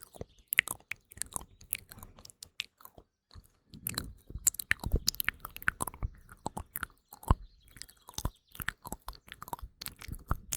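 Close-miked ASMR mouth sounds: a quick, irregular run of wet clicks, smacks and crackles.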